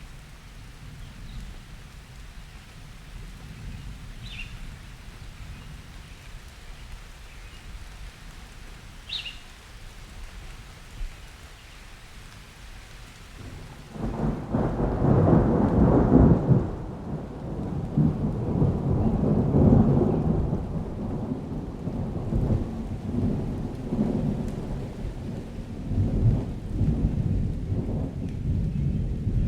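Summer thunderstorm: steady rain with a low distant rumble, then about halfway through a loud crack of thunder breaks and rolls on, rumbling in waves.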